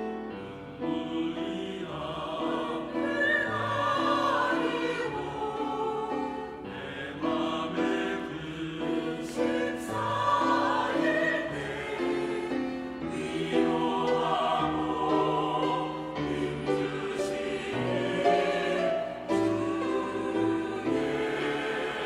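Church choir singing a hymn with sustained, held notes.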